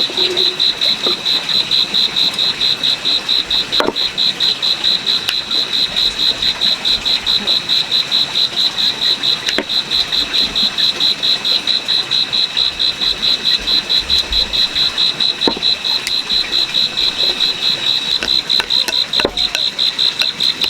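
Insect chirping: one loud, high-pitched, rapidly pulsing trill that holds steady throughout, with a few faint clicks beneath it.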